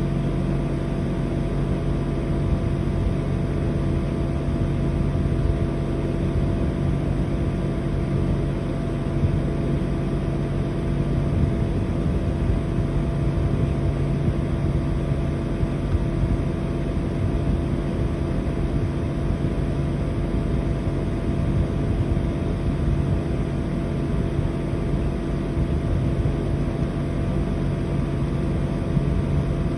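Mitsubishi Heavy Industries SRK56TX2 air conditioner outdoor unit running steadily: an even hum with a few steady tones from the compressor over the rushing of the fan.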